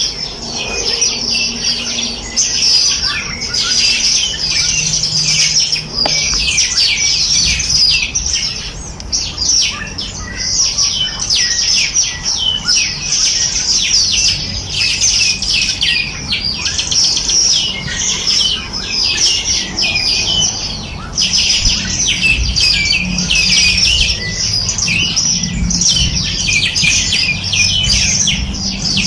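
A chorus of many small birds chirping and trilling at once: dense, overlapping high-pitched chirps with no break.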